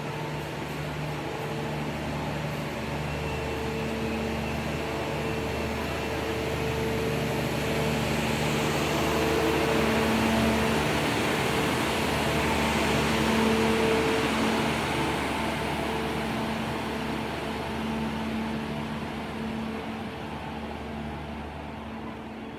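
Passenger train rolling slowly past along a station platform, with the steady hum of its diesel generator car. The hum swells to its loudest about halfway through, as the louvred generator car goes by, then eases off.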